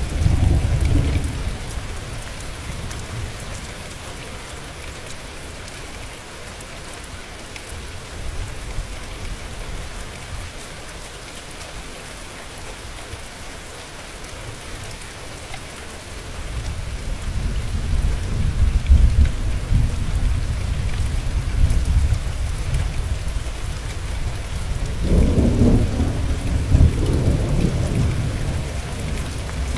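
Steady rain with rolling thunder. A deep rumble fades over the first couple of seconds. A longer one builds about halfway through and swells again near the end.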